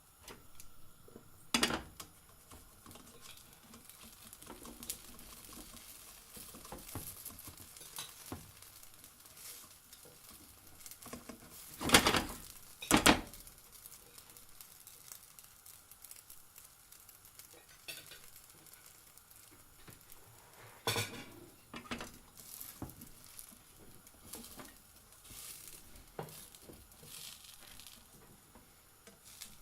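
A pancake frying in a pan with a low sizzle, broken by utensil clinks and knocks against the pan; the loudest are two knocks about a second apart near the middle.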